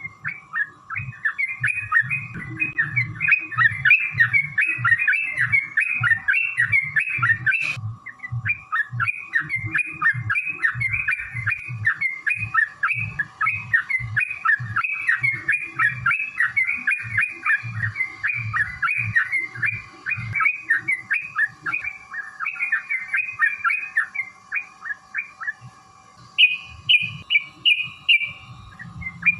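Yellow-vented bulbul (trucukan) singing a long, fast run of chattering notes, broken only briefly just before 8 seconds. Near the end a short series of higher notes follows a quieter moment.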